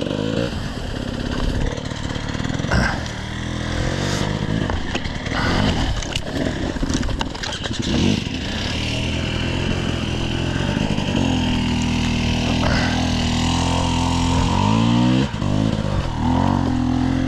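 Dirt bike engine running at low revs, the throttle opening and closing as the bike is ridden slowly over rough ground, with several knocks and clatters along the way.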